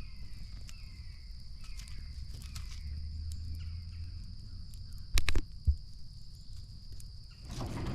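Steady high-pitched insect chorus, crickets, with a faint repeated downward-sliding chirp in the first three seconds. Two sharp clicks come a little past five seconds, followed by a low thump.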